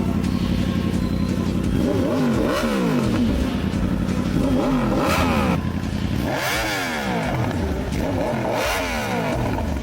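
Motorcycle engine revving, its pitch rising and falling back about four times.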